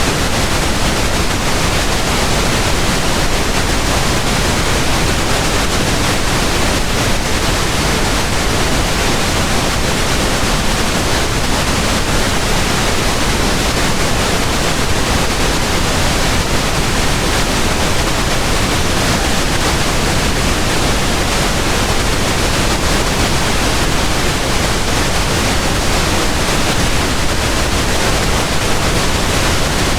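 Steady, unchanging pink noise: an even hiss that spreads across all pitches and leans toward the low end.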